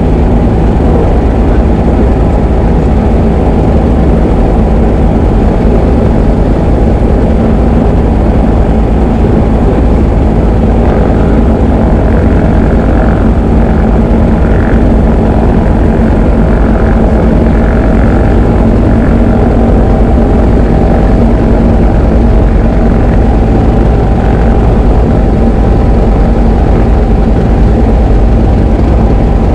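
Diamond DA20 light aircraft's piston engine and propeller running steadily, heard as a loud, even drone from inside the cockpit.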